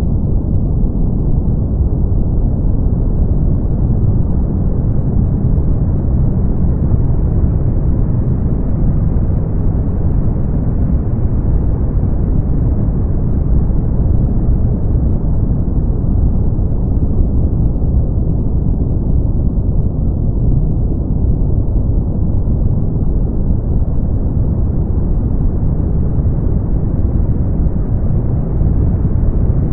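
Steady brown noise: a deep, even rumble with no high hiss above a soft top end that drifts slowly.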